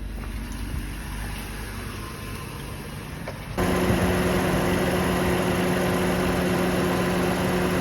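A car engine idles quietly. About three and a half seconds in, a portable tire pump powered from the car switches on and runs with a steady hum, inflating a tire that is low from a suspected slow leak.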